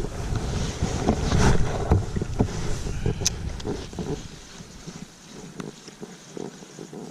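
Wind buffeting the microphone over a steady outdoor rush, with scattered short knocks. Busier in the first few seconds, dying down about five seconds in.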